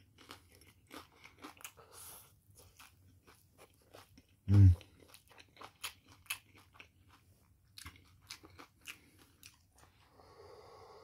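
Close chewing of a crisp fried chicken taquito, a run of small crunches and mouth clicks. About four and a half seconds in comes a short, low voiced hum, the loudest moment. Near the end comes a steady slurp as salsa juice is drunk from a tipped bowl.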